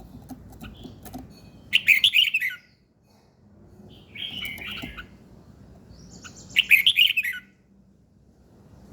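A songbird singing three short, fast warbled phrases a couple of seconds apart, over a low steady background hum.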